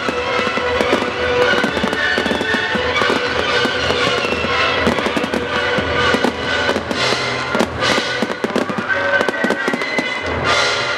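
Fireworks crackling and banging continuously over a music soundtrack. Several heavier bangs come in the second half, the deepest and loudest near the end.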